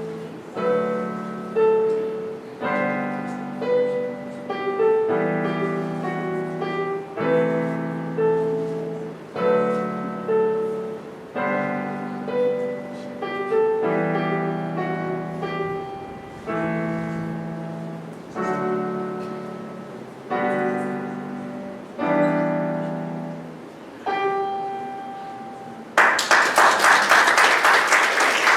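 Solo piano playing the closing bars of a slow ballad, chords struck about once a second and left to ring, ending on a single note. Audience applause breaks out suddenly about two seconds before the end.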